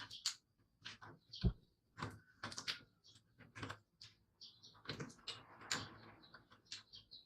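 Irregular light clicks and knocks, some close together, with a few faint short high-pitched sounds between them.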